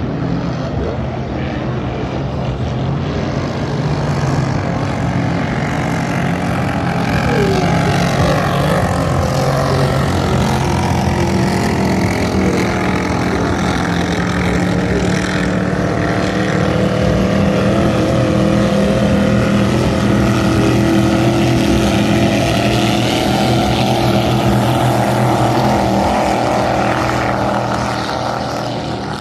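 Vintage racing speedboats' engines running hard on the river: a loud, continuous drone with several pitches at once, growing louder a few seconds in and easing off near the end.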